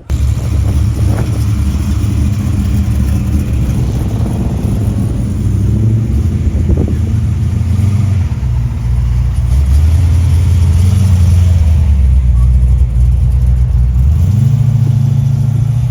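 Car engine running loudly with a deep, low note, then stepping up in pitch about fourteen seconds in as it is revved slightly and held there.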